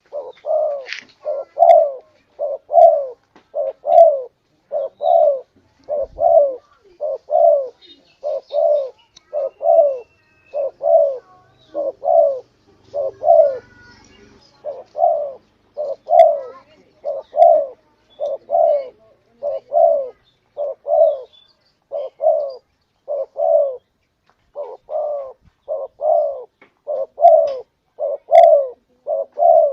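Spotted dove (tekukur) cooing: a long, even run of low coos, a little more than one a second.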